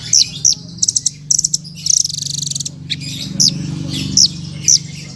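Songbird singing a series of sharp, high chirps and short downward-slurred notes, with a quick run of rapid notes about a second in, over a low steady hum.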